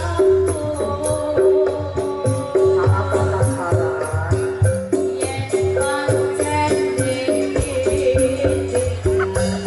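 Jaranan ensemble music: drums under a brisk rhythm of repeating struck pitched notes, with a higher melody line over it.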